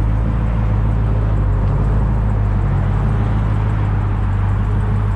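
Dodge Challenger SRT Hellcat's supercharged 6.2-litre Hemi V8 running at a steady idle, low and even with no revving.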